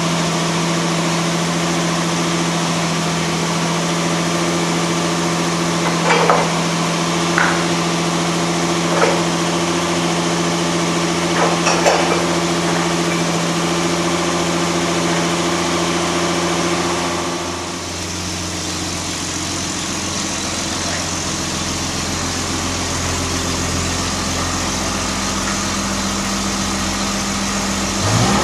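A car engine idling steadily, with a few short knocks about six to twelve seconds in as parts of a mobile scissor lift are handled. A little past halfway the idle drops to a lower, rougher note.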